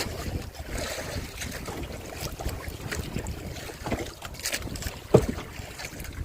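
Wind buffeting the microphone in uneven gusts, with scattered small knocks and one sharp thump about five seconds in.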